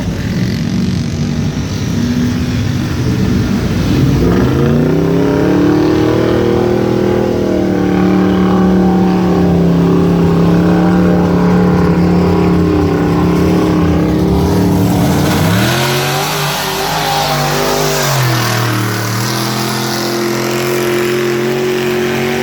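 Off-road mud truck's engine revving hard under load: it climbs about four seconds in and holds steady at high revs for about ten seconds, then drops back, dips lower, and picks up again near the end.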